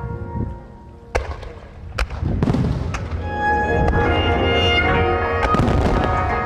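Starmine fireworks display: sharp bangs of bursting shells about a second in, at two and three seconds, and two close together near the end, over a building crackle, with music playing throughout.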